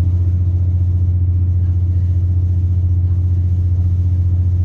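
Inside a British Rail Class 170 Turbostar diesel multiple unit, the underfloor 13.6-litre MTU turbo diesel engine runs with a steady, loud low drone that does not change in pitch.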